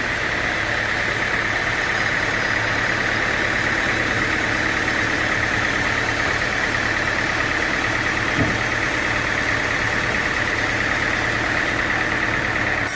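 A sawmill's engine running steadily at an even speed, with a single short knock about eight seconds in.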